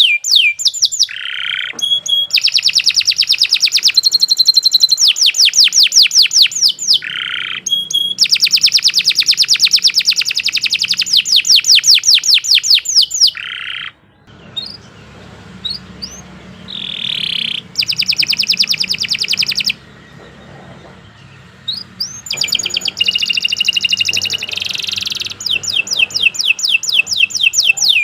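Domestic canary singing in long, loud trills of fast repeated notes, each sweeping down in pitch, broken by two short pauses partway through.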